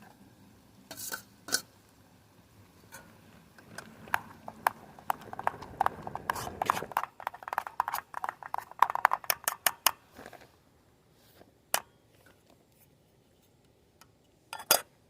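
Dishes and utensils being handled, clinking and clattering, densest from about halfway through, then a few single clinks.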